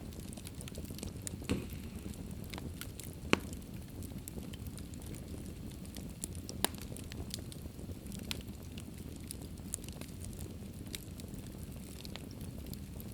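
Fire in a fireplace crackling: a low steady hiss with irregular small crackles and a few sharper pops, the loudest about a third of the way in.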